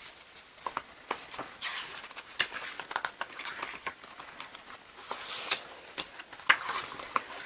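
Pages of a K-pop album photobook being turned and handled by hand: a string of paper rustles and small clicks.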